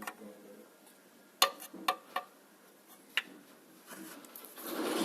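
A few sharp, separate clinks, about four of them spread over a couple of seconds. A rustling noise builds near the end.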